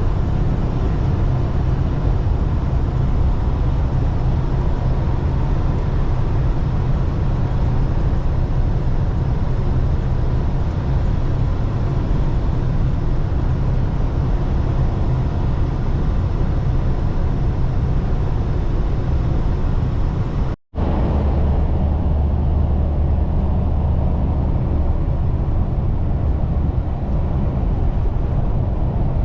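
Steady low engine and road rumble of a vehicle being driven. About two-thirds of the way through, the sound drops out for an instant, then comes back with a deeper rumble.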